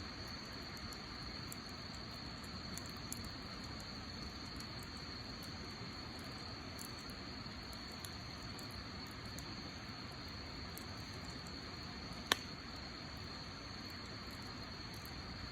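Wood campfire crackling with scattered small ticks, and one sharp loud pop about twelve seconds in, over a steady high-pitched hum.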